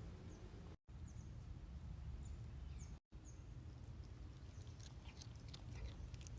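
Faint outdoor ambience: scattered short, high bird chirps over a steady low rumble. A few quick clicks come near the end, and the sound cuts out completely twice for a moment.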